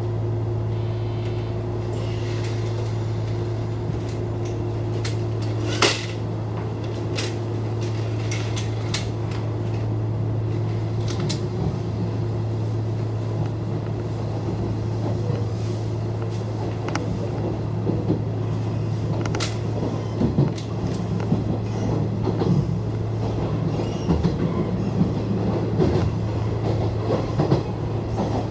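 Nishitetsu Tenjin-Ōmuta Line express train running, heard from inside the passenger car. A steady low hum carries a faint whine in the first few seconds, and the clicks and knocks of wheels over rail joints grow busier in the second half.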